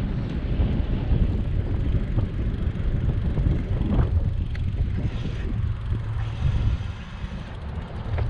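Wind rumbling on the microphone of a camera carried on a moving bicycle, with a few faint ticks from the ride.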